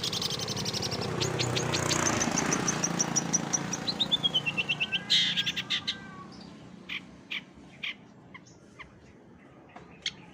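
Songbird song: rapid trills of sharp, high chirps, then a falling run of notes about four seconds in, thinning to scattered single chirps. A background hiss fades out about halfway through.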